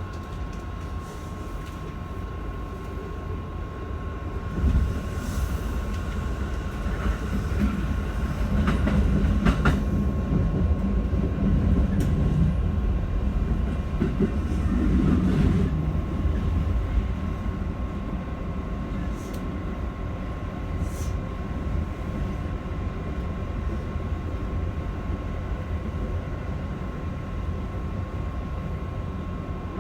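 Keikyu 1000 series electric train running at speed, heard from inside the car: a steady rumble of wheels on rail that grows louder for a stretch midway and then eases, with a few sharp clicks.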